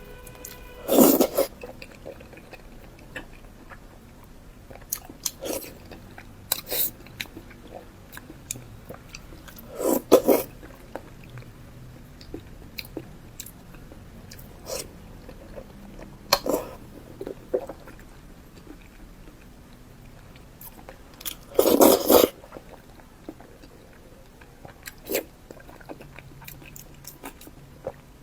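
Close-miked eating: soft chewing and wet mouth clicks throughout, with three louder bursts of biting or chewing about a second in, around ten seconds and around twenty-two seconds.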